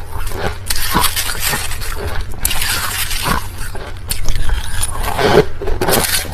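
Crushed ice being chewed close to the microphone: a run of crisp, wet crunches one after another.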